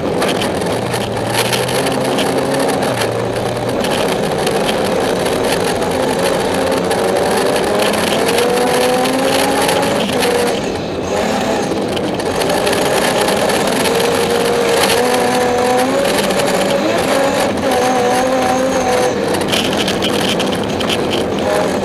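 BMW 325i rally car's straight-six engine, heard from inside the cabin, driven hard: its pitch climbs through the gears and drops at each shift, with a brief lift off the throttle about ten seconds in, over a steady hiss of tyres on a snowy road.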